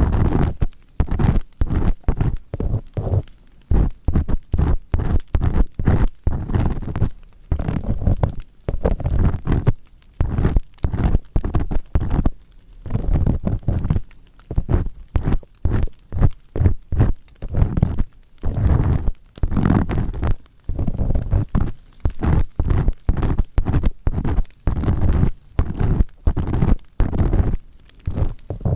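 Firm ear-pick cleaning on a binaural dummy-head microphone's ear: an earpick scraping and rubbing in the ear canal in rapid repeated strokes, with deep rumbling scrapes and brief pauses between runs.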